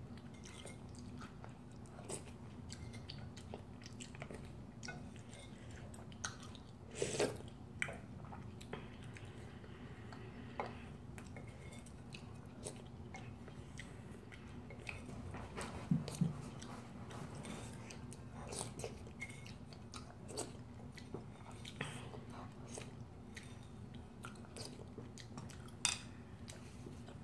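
Close-up eating sounds: a person chewing noodles and sipping soup broth, with scattered light clicks of chopsticks and a spoon against a ceramic bowl, over a faint steady low hum.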